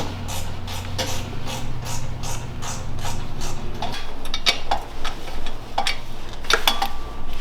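Hand ratchet wrench clicking in an even rhythm, about three to four clicks a second, while bolts are worked loose; in the second half the clicking turns into irregular metal clinks of tools. A low steady hum sits under the first half and stops a little past halfway.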